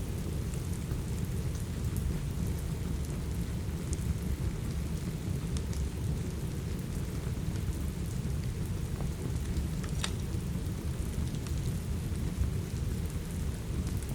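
Steady rain with a deep, even low rumble beneath it, and a few sharp crackles and pops from a wood fire in a fireplace, the clearest about ten seconds in.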